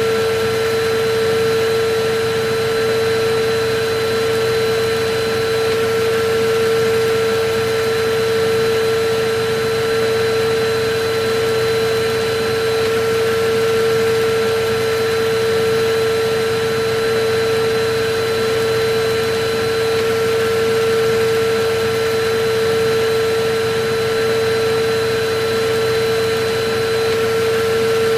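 Electric vacuum cleaner running steadily, a constant rushing of air with a steady motor whine.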